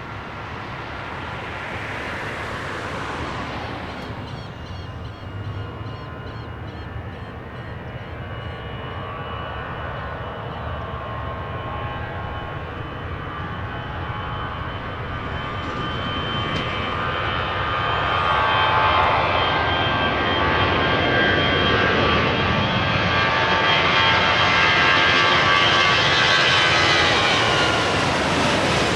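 Airliner engines running with a high whine over a low rumble, growing steadily louder from about halfway through as the aircraft comes closer; the whine drops slightly in pitch near the end as it passes.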